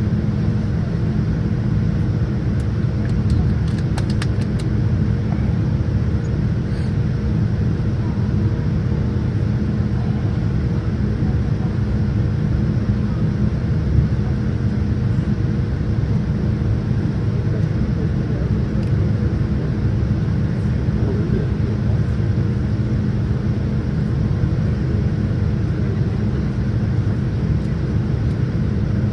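Steady low rumble of a Boeing 787-10 airliner heard from inside the cabin as it taxis after landing, with a faint steady hum and a few faint clicks a few seconds in.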